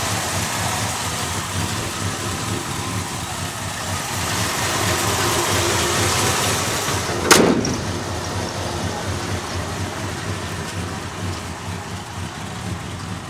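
Ford 351M V8 idling steadily. There is one sharp loud bang about seven seconds in, after which the engine sound is duller and slowly quieter.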